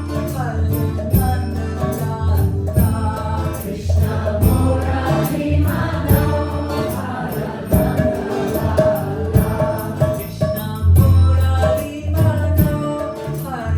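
Kirtan: voices singing a devotional Krishna chant in call-and-response over instrumental accompaniment with a steady beat.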